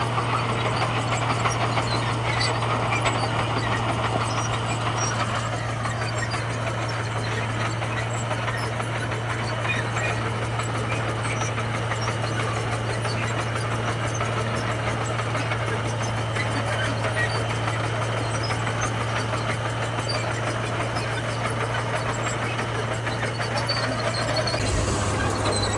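Komatsu bulldozer's diesel engine running steadily at a constant note, which steps slightly lower near the end.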